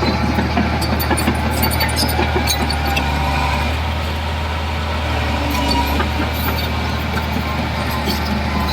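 Heavy diesel engine of a construction machine running steadily with a deep drone, with scattered metallic clinks and rattles over it.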